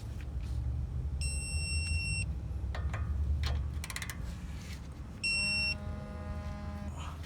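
Two high electronic beeps: a longer one about a second in, and a louder short one about five seconds in that is followed by a lower held tone for about a second and a half. Underneath are a low rumble and a few light clicks.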